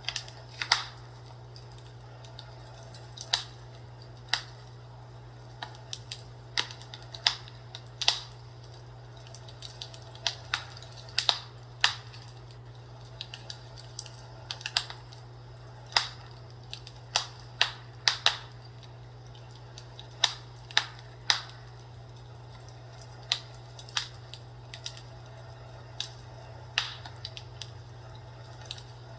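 Wood fire crackling, with irregular sharp pops of varying loudness over a steady low hum.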